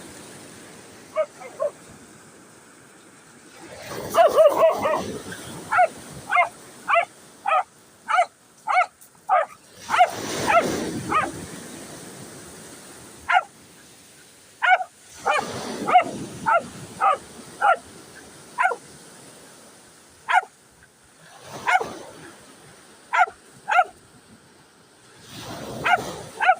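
Dog barking in runs of short barks, two or three a second, with pauses between the runs.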